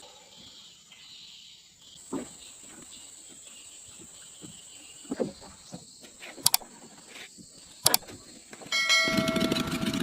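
Steady high insect drone with a few scattered sharp knocks and clicks; near the end a motor engine starts running loudly.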